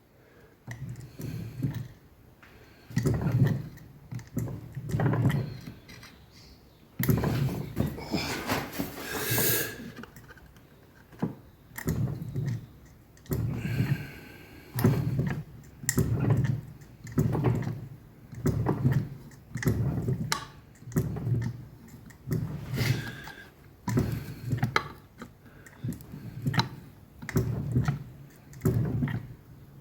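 Fly press striking 2 mm steel plate over and over, a short thud about once a second, as the tooling presses small overlapping dents to form the veins of a leaf. A longer rasping noise comes a third of the way in.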